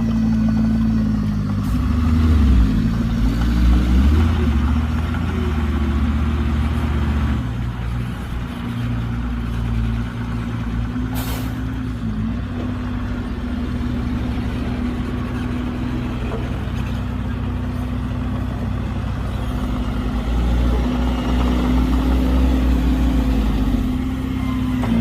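Heavy diesel engine of a dump truck or bulldozer running steadily, working harder twice, with a deeper rumble from about two to seven seconds in and again near the end. A brief sharp sound about eleven seconds in.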